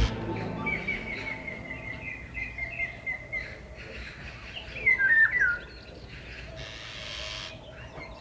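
Small birds singing: a quick run of short, evenly spaced chirps for about three seconds, then a few louder notes that slide downward about five seconds in.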